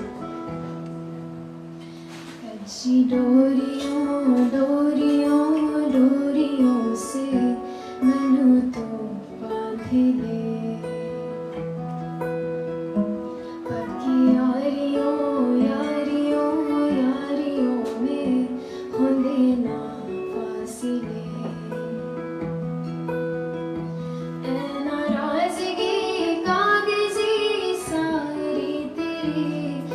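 A woman singing over acoustic guitar chords. The guitar plays alone at first and the voice comes in about three seconds in.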